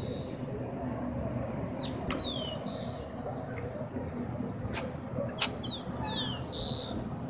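Small birds calling: short, high whistled notes that sweep down in pitch, repeated several times, over a steady low background rumble.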